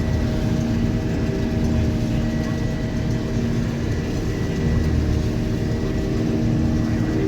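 Combine harvester running steadily while harvesting soybeans: a constant drone of engine and threshing machinery with several steady tones and a faint high whine.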